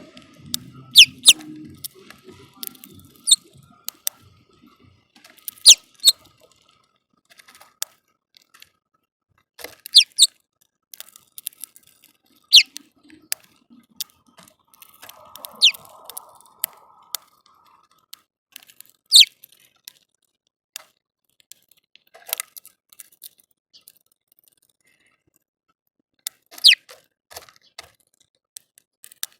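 Small birds at a feeder giving sharp, high chirps, each a quick downward-sliding note, scattered irregularly and sometimes in quick pairs, with light clicks between them.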